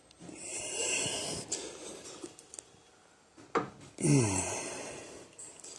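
Rebuilt hydraulic power steering cylinder being stroked by hand: two hissing, squishing strokes as air and oil are pushed through it, the second with a falling tone.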